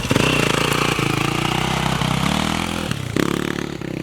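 Off-road race engine running and revving, its pitch rising a little after two seconds in, with an abrupt change just after three seconds.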